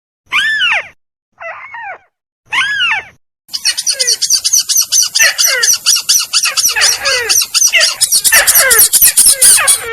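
Lure recording of crake (burung tikusan) calls: three separate arched, down-slurring calls, then from about three and a half seconds a dense run of overlapping calls with a rapid, high repeated trill on top.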